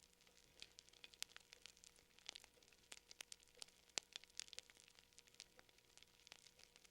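Wood fire crackling faintly: irregular sharp pops and snaps, several a second, some louder than others.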